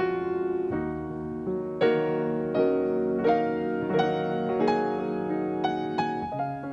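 Background piano music: a slow, gentle melody of notes struck about twice a second over held chords.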